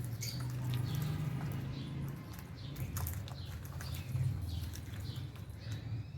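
A flock of lovebirds and budgies chirping: many short, high calls overlapping, with sharp clicks mixed in and a low steady hum underneath.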